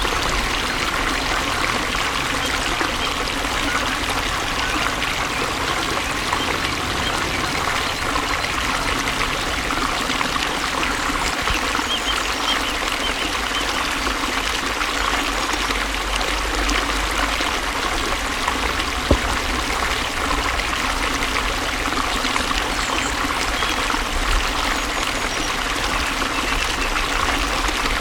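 Flowing water running steadily, an even rushing with a light trickle to it, with one brief click about two-thirds of the way through.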